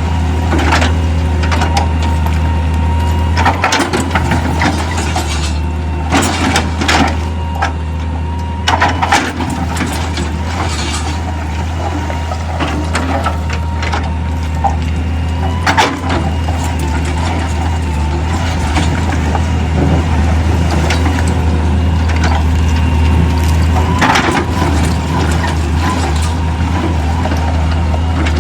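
Heavy stone-crushing machinery running with a steady low drone and a steady high whine, with irregular knocks and clatter of rock throughout.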